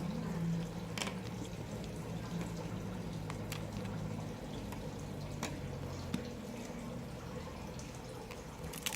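A few short, sharp clicks, a second or more apart, over a steady low hum.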